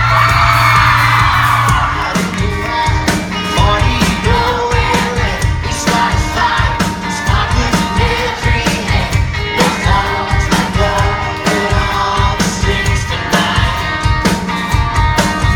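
Live pop-rock band playing with singing, drums and bass. Crowd screaming fills the first couple of seconds, then a steady drum beat comes in.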